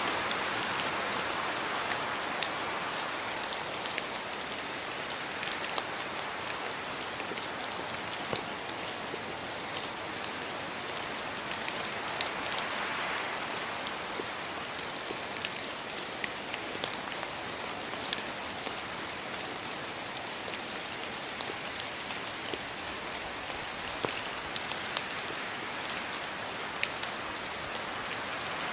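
Steady rain: an even hiss of falling rain with sharp ticks of single drops striking all through it.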